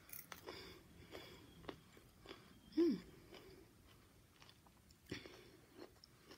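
Close-up eating sounds: chewing and biting with small wet clicks and crunches of the mouth and food. About three seconds in there is a short falling hum of the voice.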